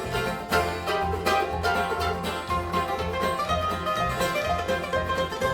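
Bluegrass band playing an instrumental break, with banjo picking over guitar and a steady bass line.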